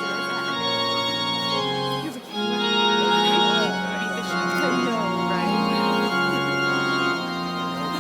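Organ music playing held chords that change every second or so, with a brief break about two seconds in.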